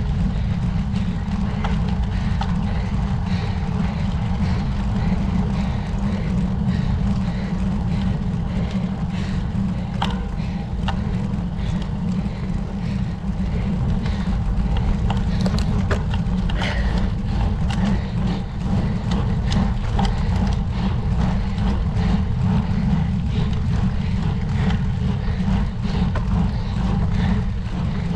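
Steady low wind rumble on a bike-mounted camera's microphone while a road bike is ridden uphill, with scattered light clicks.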